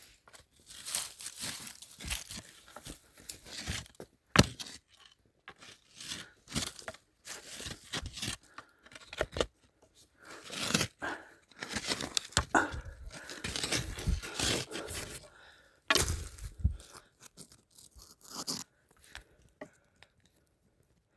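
Digging out wild hwanggi (milkvetch) root: irregular scraping and crunching of soil and tearing of roots, with a few sharp knocks. It stops near the end.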